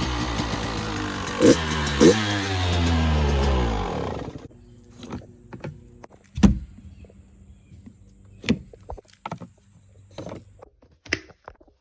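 KTM 85 BigWheel's 85cc two-stroke single running, with a small exhaust leak, then cutting off abruptly about four seconds in. Scattered knocks and clicks follow.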